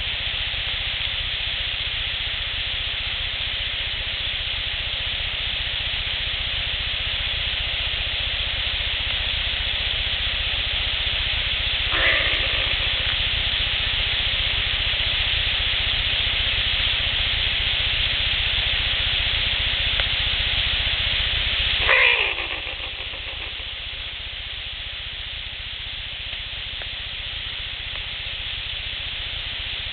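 Steady recorder hiss with two short cries about ten seconds apart, each falling steeply in pitch. The second cry is the louder.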